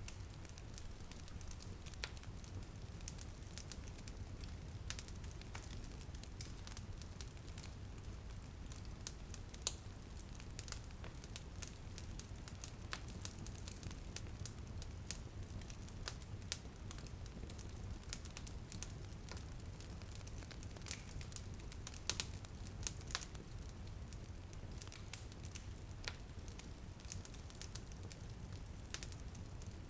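Wood fire crackling in a fireplace: irregular sharp pops and snaps, a few louder ones about ten and twenty-two seconds in, over a steady low rumble and the soft even hiss of light rain on a window.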